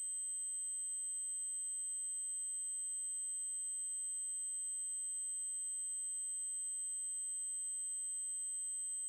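Synthetic 8192 Hz triangle-wave tone held steady and unchanging: a single high-pitched electronic whine.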